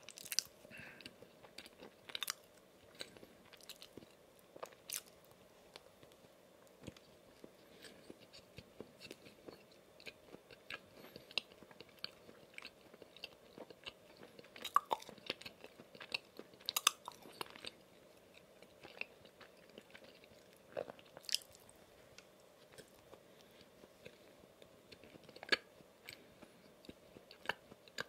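A person chewing a soft glazed donut, heard close up: moist chewing and mouth sounds with scattered sharp clicks and smacks at irregular intervals.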